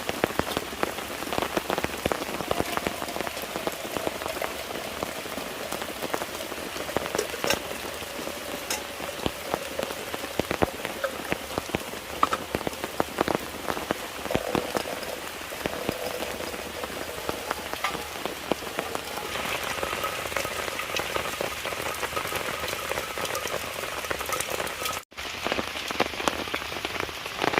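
Steady rain falling, with many close raindrop hits. The sound drops out briefly near the end, then resumes.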